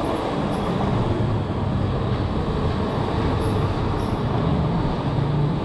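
Yatri P1 electric motorcycle on the move, heard as a steady rumble of road and riding noise with no engine note.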